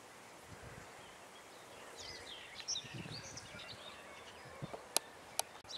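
Birds chirping and calling in short high notes over a faint steady outdoor background, busiest in the middle, with a couple of sharp clicks near the end.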